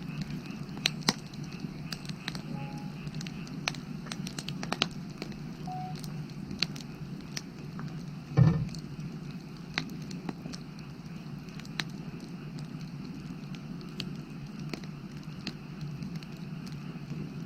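Firewood burning, with scattered sharp crackles and pops over a steady low background noise, and one louder dull thump about eight seconds in.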